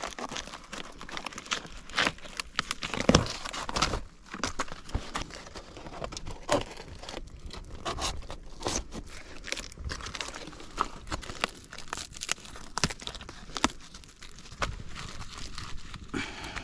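Irregular crinkling and crackling with many small sharp clicks and knocks.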